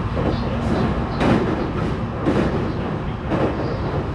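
JR East E721 series electric train heard from inside its motor car while running on the line: a steady low rumble from the running gear, with a loud knock from the wheels about once a second.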